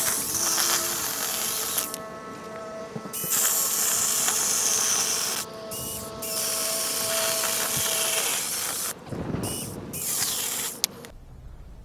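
A small power tool running in several stretches with short breaks, stopping abruptly near the end.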